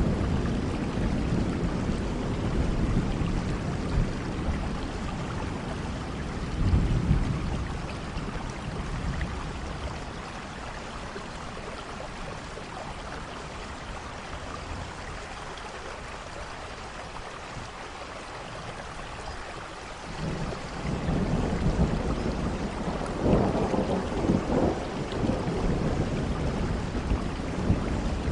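Steady rain falling, with deep rolling thunder rumbles that die away for several seconds mid-way and then build again, loudest about two-thirds of the way through.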